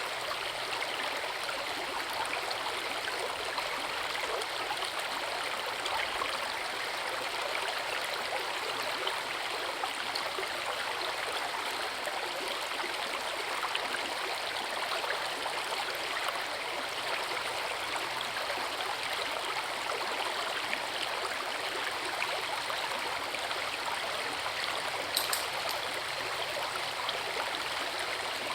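Forest river water rushing steadily over rocks at a small waterfall, an even, unbroken splashing noise.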